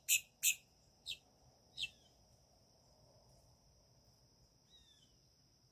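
Bird calling: a few short, harsh calls in the first two seconds, the last ones thinner and falling in pitch, then a few faint chirps near the end. A faint steady high-pitched tone runs under it.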